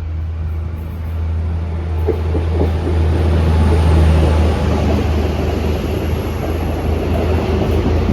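Train running: a steady low drone, with a rumble and wheel-on-rail rattle building from about two seconds in and staying loud.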